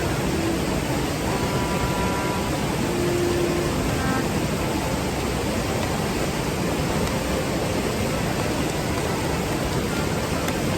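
River water rushing in a steady, even roar.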